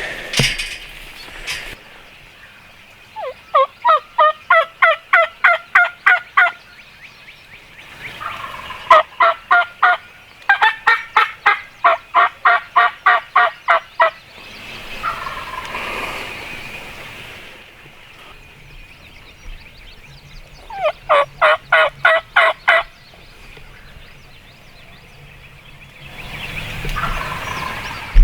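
Loud runs of rapid hen turkey yelps from a hunter's turkey call, about four or five notes a second, in three series. Each run strikes a wild turkey gobbler, which answers with a quieter gobble twice, about halfway through and near the end.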